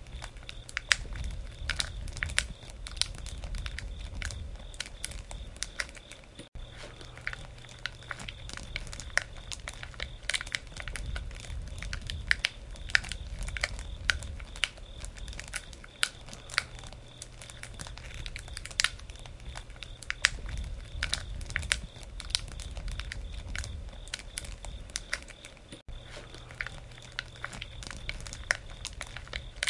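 Wood campfire crackling: irregular sharp snaps and pops, some much louder than others, over a low rumble of the fire.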